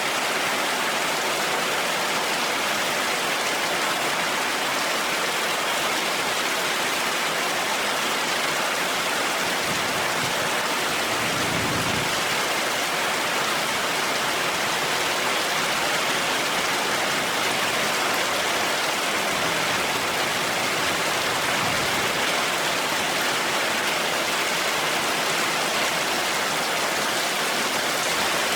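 Heavy rain falling steadily, an even hiss of water with no pauses. A brief low rumble comes about twelve seconds in, and a fainter one later.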